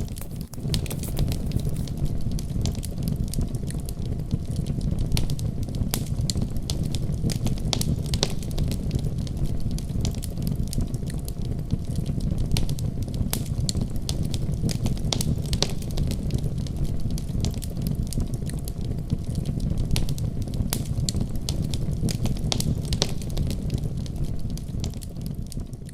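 Fireplace fire crackling, with frequent sharp pops and snaps over a steady low rumble of flames, fading out near the end.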